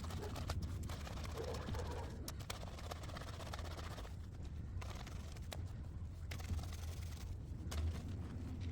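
Wet laundry being handled and scrubbed by hand on a concrete washboard: scattered scraping and soft clicking handling noises over a steady low rumble.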